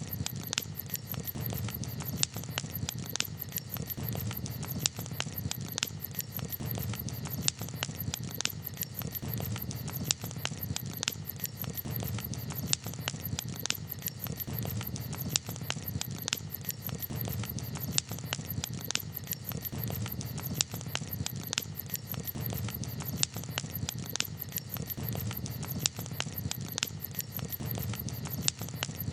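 Campfire crackling: frequent sharp pops and snaps over a steady low rumble of the burning fire.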